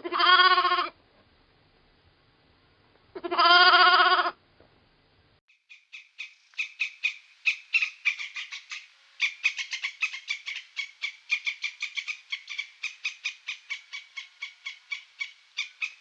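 Two drawn-out bleats, one at the start and one about three seconds in. Then, from about six seconds in, a long run of short, rapid chirping calls, roughly four or five a second.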